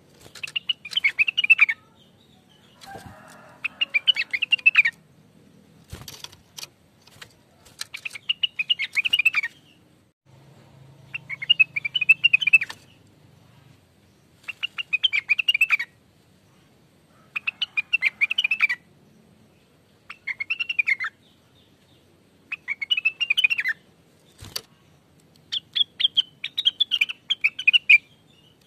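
Blue-winged leafbird (Rengganis, cucak wilis) singing in its typical way: repeated phrases of one to two seconds of fast, high, warbling chirps, with short pauses between them. A few sharp clicks fall in the gaps.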